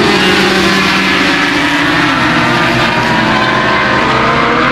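Racing motorcycle engines running loud and continuous, their pitch holding mostly steady and rising slightly near the end.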